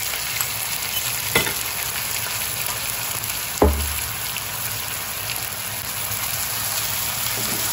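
Lobster tails and garlic sizzling in hot oil and barbecue sauce in a wok, stirred with a wooden spatula. Two sharp knocks come about a second and a half and three and a half seconds in, the second the louder.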